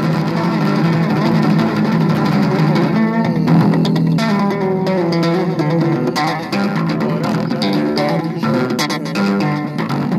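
Electric bass guitar playing a busy instrumental line of plucked notes, with no singing.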